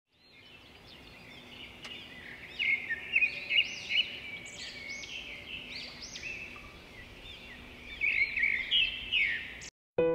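Small birds chirping and twittering in quick, high calls, fading in at the start and cutting off suddenly near the end, where piano music begins.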